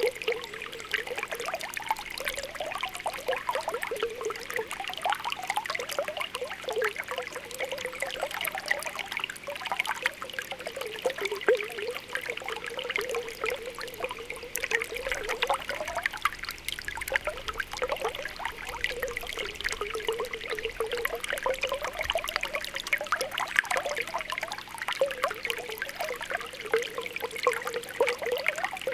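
Spring water welling up from the ground, bubbling and popping continuously with a steady trickle and gurgle.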